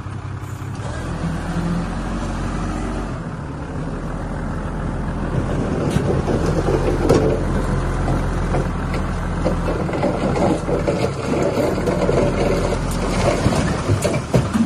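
Heavy diesel construction machinery running, the engine working harder from about a second in, with a rough rattling and scraping noise that grows louder from about five seconds on.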